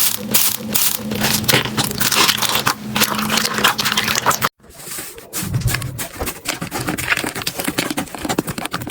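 Slime being squished and pressed by hand, giving dense crackling and popping. The sound stops dead about halfway through, then similar slime crackling starts again.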